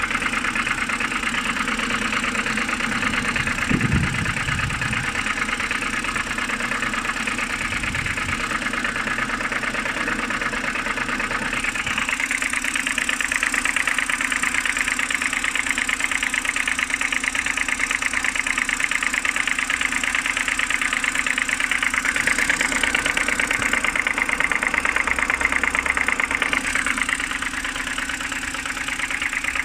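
BMW N52B25 straight-six idling cold with a steady rapid knocking, which the owner places near the oil filter housing. The tone of the running engine shifts about twelve seconds in.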